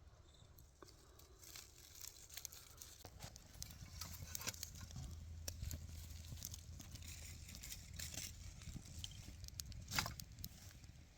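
Small wood fire crackling and snapping as it catches, just lit from char cloth with a flint and steel. The snaps come irregularly and grow busier after the first second or two, with one louder snap near the end.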